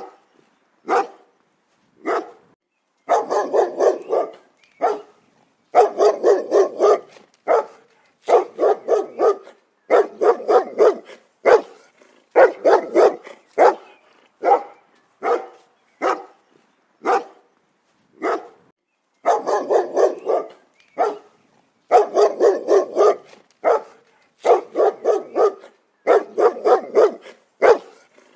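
A dog barking, loud and repeated: single barks and rapid volleys of several barks at a time, with short silent gaps between them.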